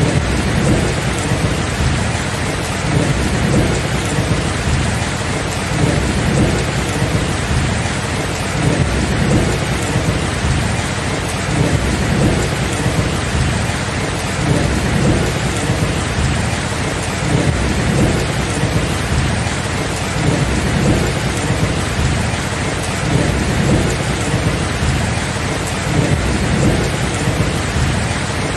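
Steady heavy rain falling, with continuous low rumbling thunder underneath.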